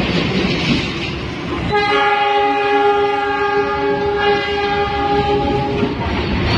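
Noise of a moving train; a bit under two seconds in, the locomotive's horn gives one long steady blast of several tones together, lasting about four seconds.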